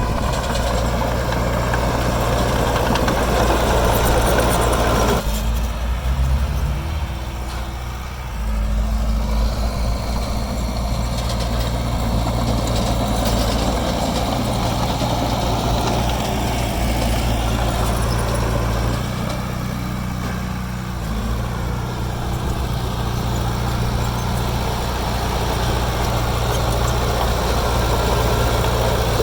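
Heavy diesel construction machine engine running steadily. The clatter above the low hum cuts off suddenly about five seconds in, and the engine note shifts again around twenty seconds in.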